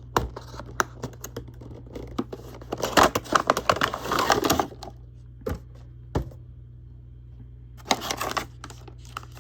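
Action figure packaging being opened by hand: cardboard and plastic scraping, crinkling and tearing, with scattered clicks. The handling is busiest a few seconds in and comes again briefly near the end.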